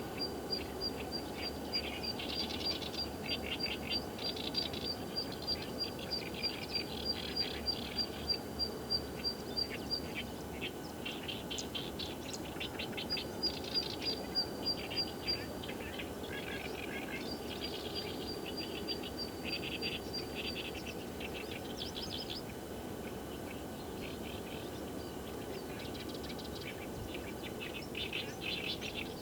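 Wild birds calling: one bird repeats a high, thin note in quick, evenly spaced runs of several seconds, while others add bursts of rapid chirps. A steady low background noise runs underneath.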